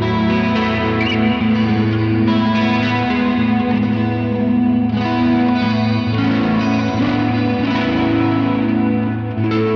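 Electric guitar played through the Neural DSP Mesa Boogie Mark IIC+ amp-modelling plugin on a clean chorus preset: chords and single notes ringing out with chorus and reverb, a new chord struck every second or two.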